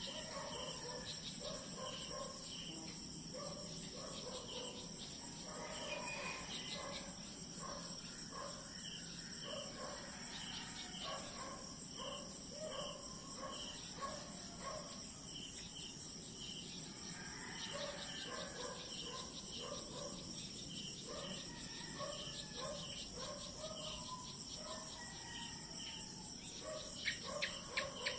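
Insect chorus: a steady high-pitched drone with short chirping notes repeating throughout, and a run of rapid clicks near the end.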